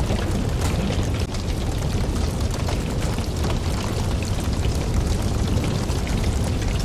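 Campfire burning steadily: a low rumble of flames with frequent small crackles and pops of the burning wood.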